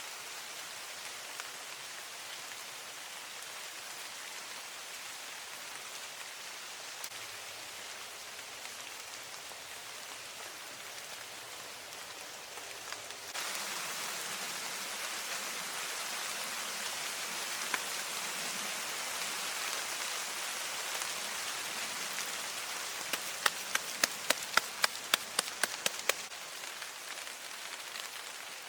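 Steady rainfall, growing louder about halfway through. Near the end, a quick run of about a dozen sharp clicks or knocks, about four a second, stands out over the rain.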